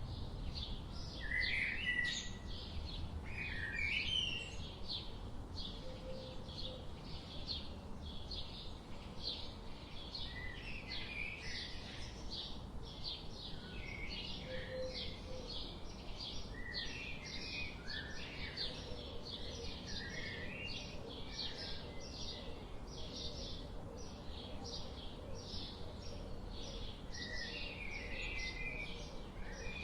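Forest birds chirping and calling at irregular moments. Underneath runs a steady, high, rhythmic pulsing call, about two beats a second, over a low background rumble.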